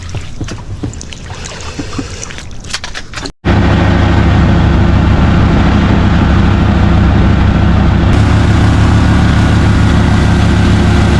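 Wind and handling noise for about three seconds, then an abrupt cut to a loud, steady engine drone.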